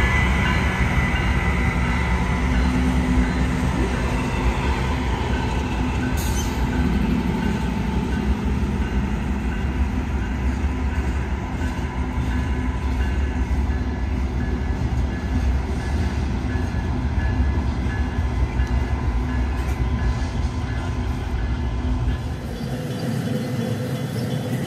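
Union Pacific train's cars rolling past with a continuous rumble of wheels on rail and an on-and-off high-pitched wheel squeal. The deep rumble drops away sharply near the end.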